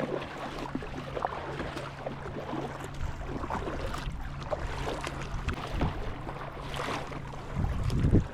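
Kayak paddle dipping and splashing in sea water with irregular drips, over wind noise on the microphone that gusts up near the end.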